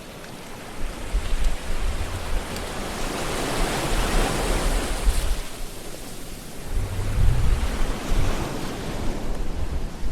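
Ocean surf: waves washing in, the wash swelling to a peak around the middle and again near the end, with low rumbles underneath.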